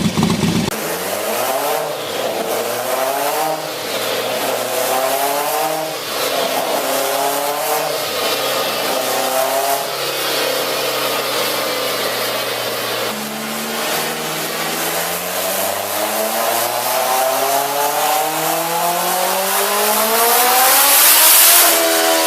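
Vehicle engine accelerating hard through the gears: the pitch climbs and drops at each shift several times, then holds. After a drop it climbs steadily for several seconds, with a rising hiss near the end.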